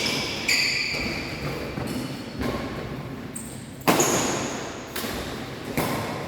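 Badminton rally: rackets striking the shuttlecock in sharp hits every second or so, the loudest about four seconds in, with short high squeaks between hits.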